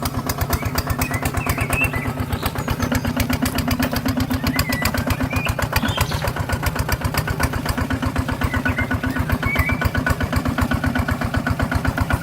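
Small tractor engine chugging steadily at an even, rapid beat, with a diesel-like sound, from a mini RC tractor at work.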